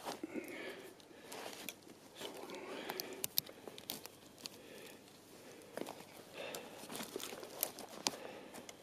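Irregular crunching and rustling with scattered sharp clicks: someone moving about and handling things in snow.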